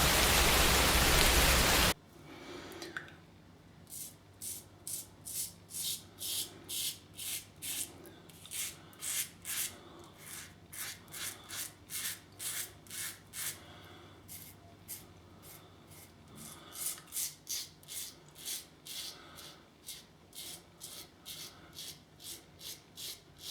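A loud steady hiss cuts off about two seconds in. Then a double-edge safety razor (Global Shave Club Rain with a Gillette Silver Blue blade) scrapes through lathered stubble in short strokes, about two a second, in runs with brief pauses.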